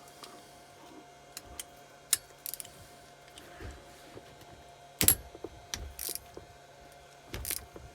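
Socket wrench working a cylinder head nut loose on a small motorcycle engine: scattered metal clicks and clinks, a sharp crack about five seconds in, and a run of ratchet clicks near the end.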